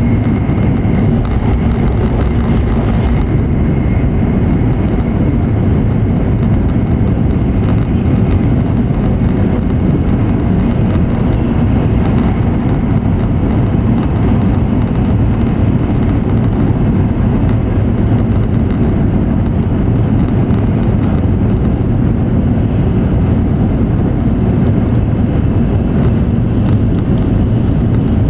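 E7 series Shinkansen running at high speed, heard from inside the cabin: a steady, loud low rumble of running noise that does not change.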